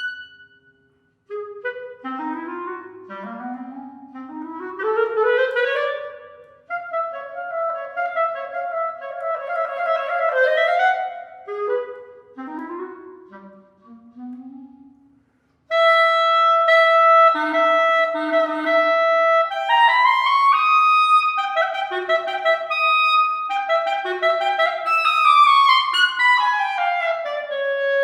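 Solo clarinet playing unaccompanied classical music: phrases of quick rising and falling runs with short pauses between them, then louder, with held high notes and a long falling run near the end.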